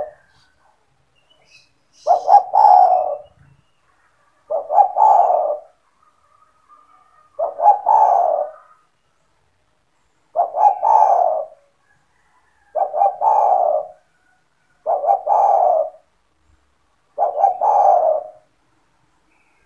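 Spotted dove (tekukur) cooing. It gives a phrase about every two and a half seconds, seven in all, each a couple of short notes run into a longer coo.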